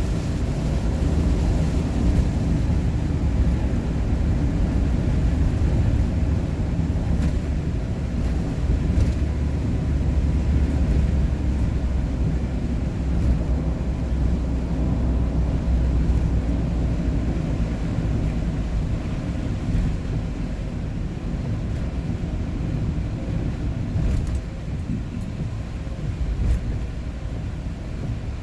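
Steady low rumble of engine and road noise heard inside a vehicle cruising on a highway, easing slightly in the last few seconds.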